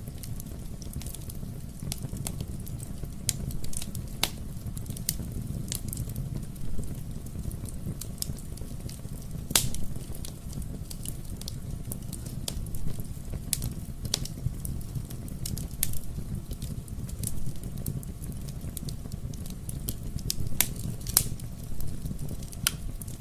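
Fire burning in a fireplace, crackling with irregular sharp pops over a steady low rumble of the flames. The loudest pop comes about ten seconds in, and a few more come near the end.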